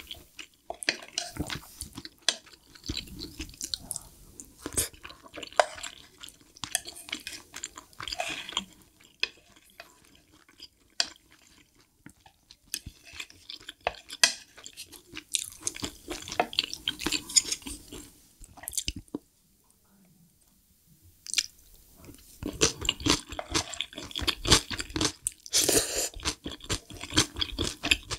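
Close-miked chewing of spoonfuls of leftover mapo tofu, with chopsticks and a spoon clicking and scraping against the plate. There is a short lull about two-thirds of the way through, then the chewing picks up again.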